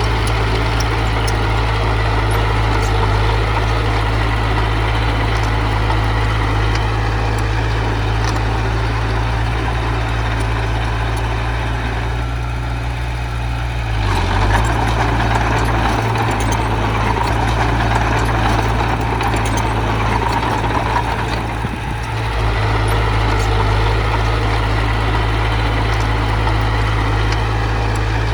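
Heavy diesel engine of an earthmoving machine running steadily, easing off twice: about halfway through and again about three-quarters of the way in.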